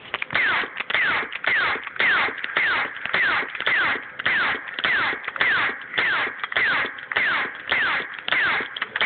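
Laser tag gun firing over and over, each shot a short falling "pew" zap, about two shots a second in a steady rapid-fire rhythm.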